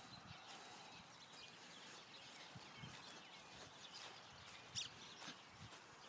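Near-silent outdoor quiet with faint, scattered bird chirps and one brief sharp tick about five seconds in.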